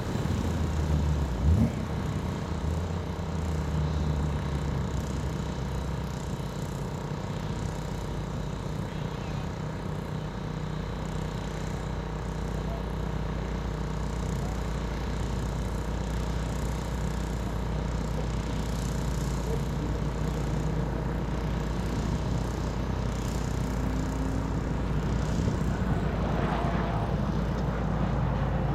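A car running at a steady pace, engine and road noise holding level without clear revving, with a brief loud thump about a second and a half in.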